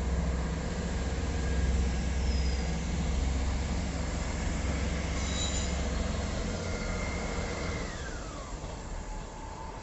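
Diesel train running through the station: a low engine rumble with brief high wheel squeals. About eight seconds in, a whine slides down in pitch as the rumble fades.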